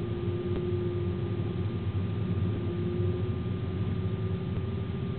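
Steady rumble and drone of a moving train heard from inside the locomotive cab, with a constant low hum.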